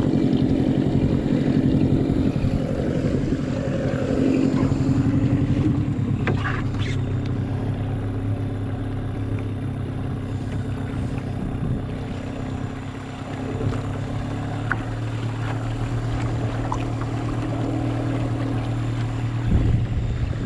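Mercury 15 hp two-stroke outboard running, with wind on the microphone. The engine note shifts a couple of times with the throttle, and there is a thump near the end.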